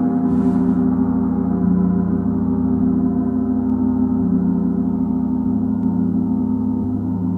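Gongs played continuously, a dense, sustained wash of many overlapping ringing tones centred in the low-middle range. A short soft hiss comes about half a second in.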